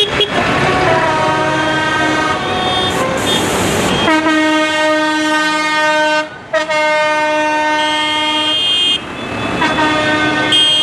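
Loud air horns on parade tractors honking: shifting, overlapping tones at first, then one long steady blast held for about four seconds with a short break in the middle, and another horn starting near the end.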